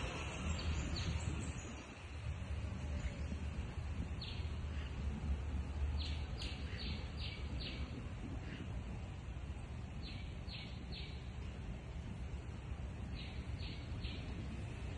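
A bird calling in short, sharp chirps, in quick runs of three to five notes that come several times, over a steady low rumble.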